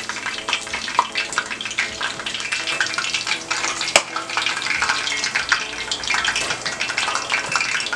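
Hot oil sizzling and crackling in a frying pan, a steady dense crackle, with one sharp click about four seconds in.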